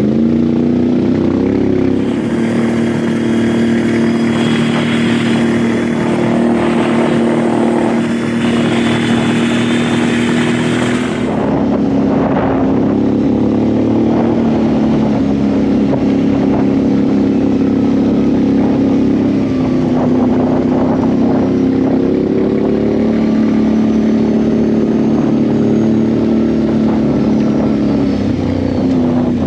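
ATV engine running at a steady pace while riding, its pitch stepping up and down a few times with the throttle. A rushing noise rides over it for about nine seconds early in the stretch.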